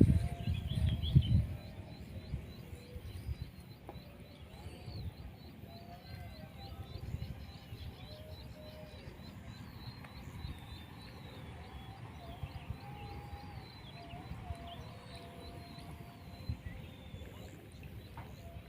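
Birds calling: a run of short, high chirps together with lower gliding, warbling calls, over a low rumble that is loudest in the first second and a half.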